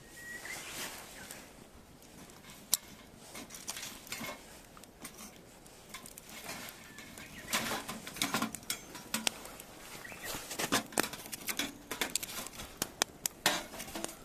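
Wood fire crackling in a Tentipi Hekla 7 compact fire pit: irregular sharp pops and snaps over a low hiss. The pops come thicker and louder from about halfway through.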